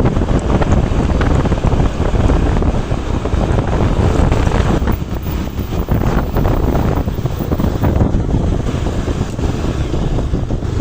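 Heavy wind buffeting on the microphone over the steady rumble of a moving vehicle on the road, with no horn sounding.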